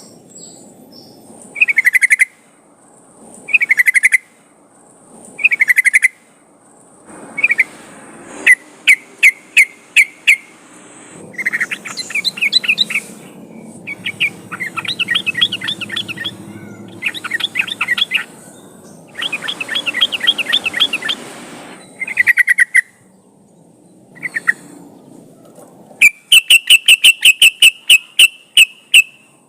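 Yellow-vented bulbul song: short bubbly phrases about every two seconds, then longer chattering trills, ending in a fast run of sharp repeated notes.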